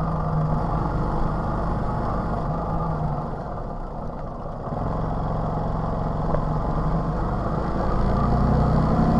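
TVS XL 100 moped's small single-cylinder four-stroke engine running at a steady pitch, with road and wind noise. The engine note fades out briefly about four seconds in, then returns.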